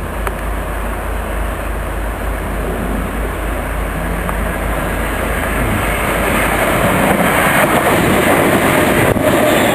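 Electric multiple-unit passenger train approaching and passing close by at speed. Its rumble and rail noise grow louder from about halfway through and peak as the carriages rush past near the end, with a faint rising whine.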